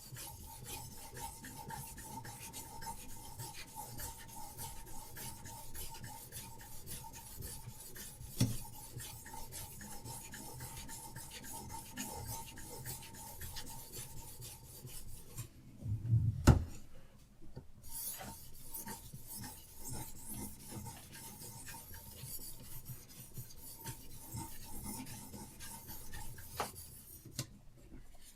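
Diamond sharpening stone on a Hapstone RS guided knife sharpener, scraping along a steel knife blade in quick, repeated rasping strokes. About halfway through the strokes stop briefly, with a loud knock, then carry on.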